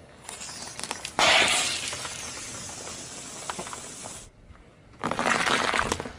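Objects being crushed under a car's tyre: a sudden loud crunch about a second in that trails off into a long hiss, then a second burst of crackling and hissing near the end.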